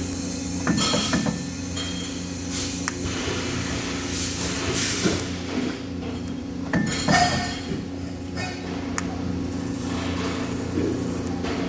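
Irregular metal clinks and knocks, as of metal parts or tools being handled, over a steady machinery hum in a metalworking shop.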